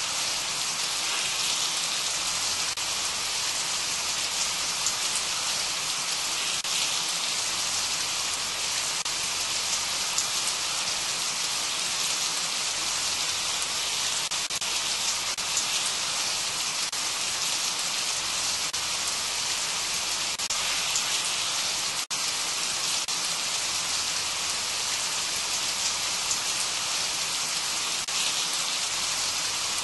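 Steady rainfall, an even hiss, with a momentary dip about two-thirds of the way through.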